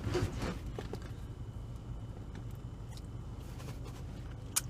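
Steady low hum inside a car cabin, with a few light handling clicks and one sharp click near the end.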